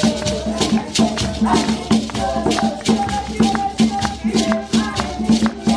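A group of African women singing together over a steady drum beat, with shakers rattling throughout.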